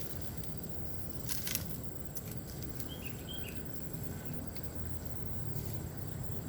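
Outdoor ambience in a bamboo grove: a steady low rumble with a thin, steady high insect tone over it. There are a few sharp clicks about a second and a half in and two short bird chirps about three seconds in.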